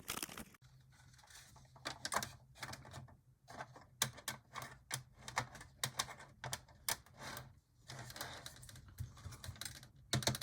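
Irregular plastic clicking and clattering from HO-scale model passenger cars being handled and set on the track, over a low steady hum.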